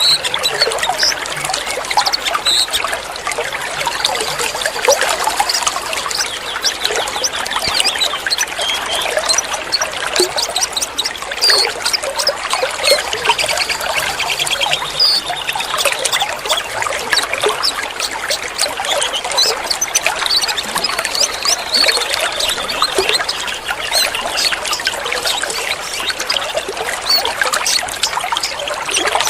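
Water trickling and splashing steadily, with many short, high bird chirps scattered over it: a birdsong-and-water therapy track.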